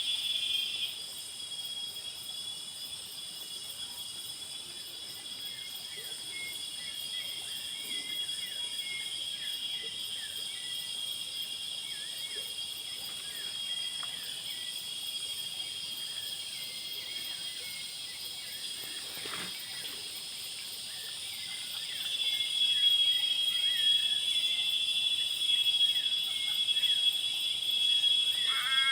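Chorus of frogs and insects: a steady high-pitched trill with many short frog calls scattered beneath it, the trill growing louder about three-quarters of the way through and a louder frog call starting near the end.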